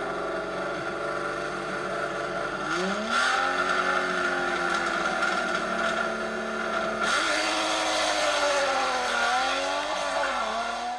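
Rally car engine running at high revs on a stage, its pitch and loudness jumping up sharply about three seconds in and again about seven seconds in as it accelerates, then dipping briefly and climbing again near the end.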